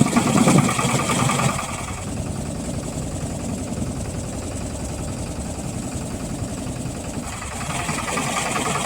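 Motorboat's engine running steadily with a low rumble, a little louder in the first second or so and again near the end.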